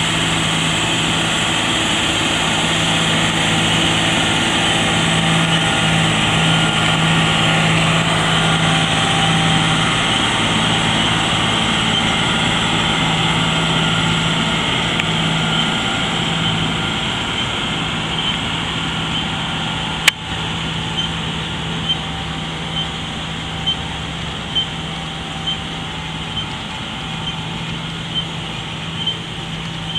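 Tractor engine running steadily with an even low hum. About two-thirds of the way through there is one sharp click, and after it a light tick about once a second over the engine.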